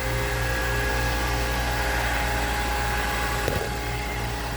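Boat engine-room machinery running: a steady low hum with a couple of faint steady whines above it, and a short knock about three and a half seconds in.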